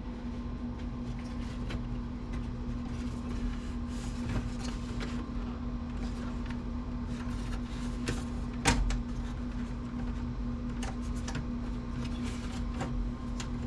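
Small clicks and light knocks of computer parts being handled and pried at while a desktop computer is dismantled, with one sharper click a little past the middle, over a steady low hum.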